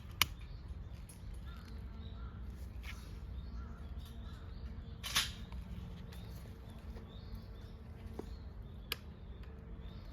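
Quiet outdoor ambience: a low steady rumble with a few short sharp sounds, the loudest about five seconds in.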